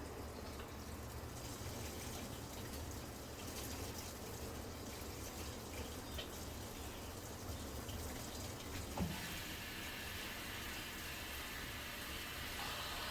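Midea Wave-Agitator top-load washing machine with water running into the tub, a steady rush. A single knock comes about nine seconds in, after which the hiss grows brighter.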